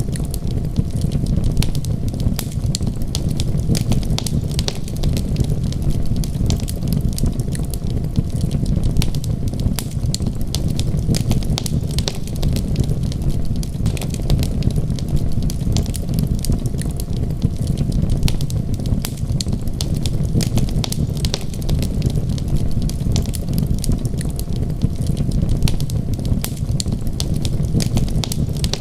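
Wood fire crackling, with frequent small irregular pops over a steady low rumble.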